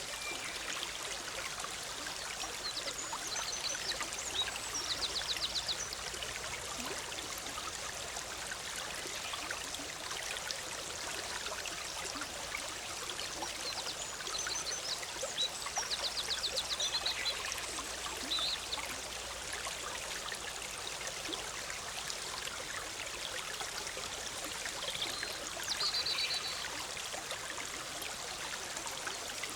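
A forest stream bubbling steadily over rocks, with small birds calling high above it in three short spells, a few seconds in, around the middle and near the end, some of the calls quick trills.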